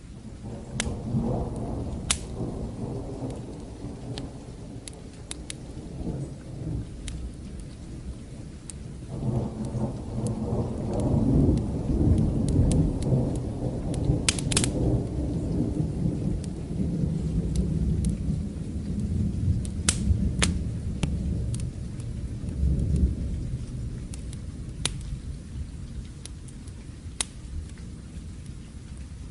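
Thunder rumbling over steady rain, in two rolls: one starting right at the beginning and a longer, louder one that swells about nine seconds in and dies away around twenty-four seconds. Sharp pops from a crackling fireplace fire come every few seconds.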